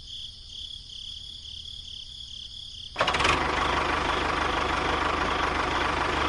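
Engine running sound, loud and rough with a fast, even pulsing, cutting in suddenly about halfway through after a quieter stretch with a steady high tone.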